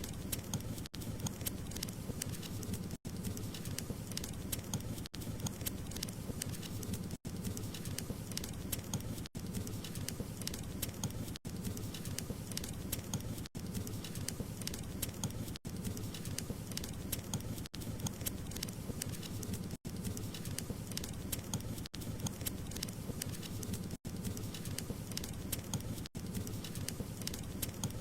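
Wood fire crackling steadily, a dense run of small pops and snaps over a soft low rush of flame. The sound drops out for an instant about every two seconds.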